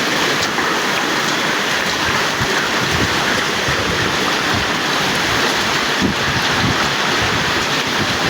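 Heavy rain pouring down in a steady, loud hiss, with an uneven low rumble beneath.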